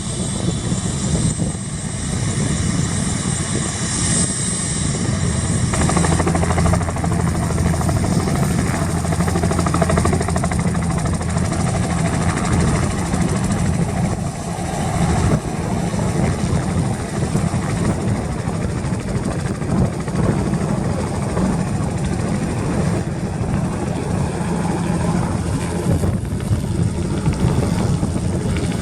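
Bell 206 JetRanger turbine helicopter taking off: its two-blade main rotor beat and Allison 250 turboshaft engine running at takeoff power, loud and steady, with a high turbine whine.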